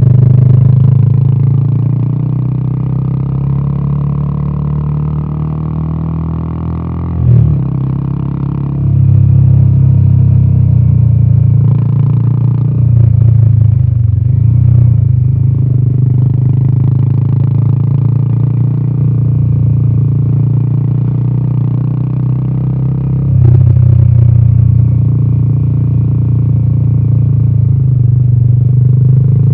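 Royal Enfield Himalayan 450's single-cylinder Sherpa engine running under way, with a deep exhaust note. It eases off for a few seconds, gives a short burst about seven seconds in, pulls harder from about nine seconds, and swells again about twenty-three seconds in.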